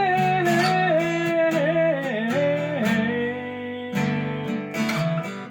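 Acoustic guitar being strummed, with a held sung note gliding in pitch over the first few seconds before the guitar carries on alone.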